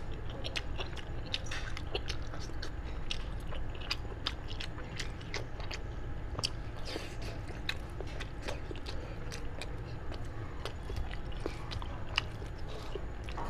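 Close-up chewing of roasted sheep's head meat, with many small sharp wet mouth clicks and smacks over a steady low hum.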